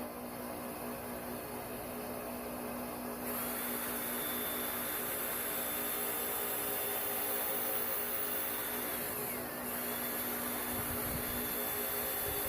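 Electric drill spinning a wire wheel, scrubbing carbon and burnt-oil buildup off a Toyota 1ZZ engine valve. About three seconds in, a harsh scraping hiss starts over a steady motor whine. Near the end the whine briefly drops in pitch and then picks back up.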